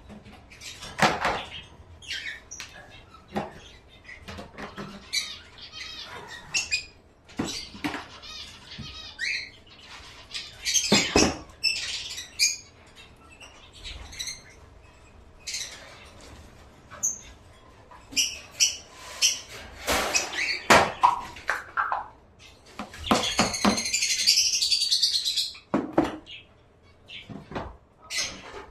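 Caged pet birds chirping and chattering, mixed with frequent sharp clicks and taps as they move about the cage. A longer burst of busy high chatter comes about 23 seconds in.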